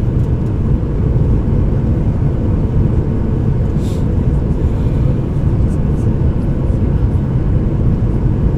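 Steady low rumble of a Boeing 737-800 airliner's jet noise, with a brief high hiss about four seconds in.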